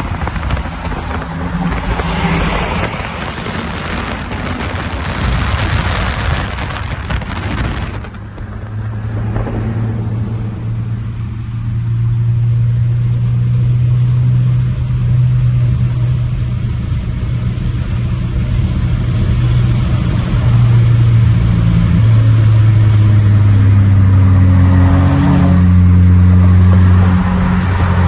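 Saab 9-3 Aero's 2.8 V6 with the muffler deleted, running on straight pipe to the tips while the car is driven. A rushing noise comes first, then from about nine seconds in the deep exhaust note takes over and grows steadily louder under acceleration, changing pitch near the end.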